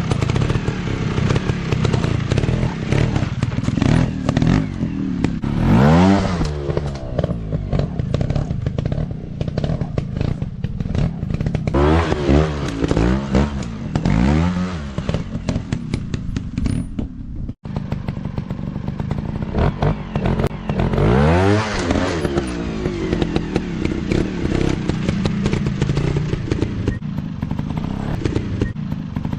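Dirt bike engines revving hard and easing off again and again, their pitch sweeping up and falling back, with some clattering. The sound breaks off sharply for an instant about two-thirds of the way through.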